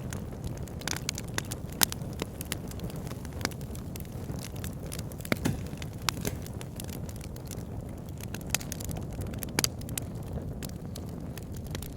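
Wood fire burning in a log burner: a steady low rumble of flames with irregular crackles and pops from the burning logs, a few of them sharp and loud.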